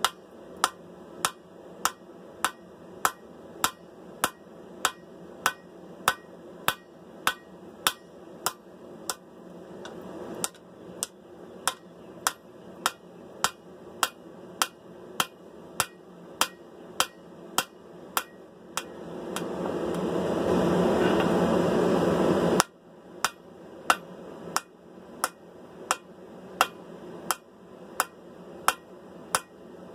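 Forging hammer striking hot steel on an anvil in a steady rhythm, about two to three sharp ringing blows a second, as the sword's bevels are drawn out. For a few seconds past the middle, a rising rush of noise builds under the blows and then cuts off suddenly.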